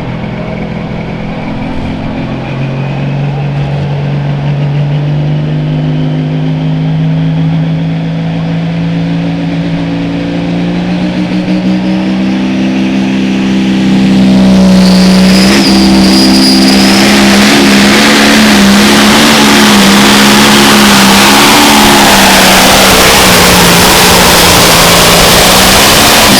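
Pulling tractor's engine under load: it builds slowly and rises in pitch, then about halfway through goes to full throttle, much louder and harsher, and holds steady until the pitch drops at the very end.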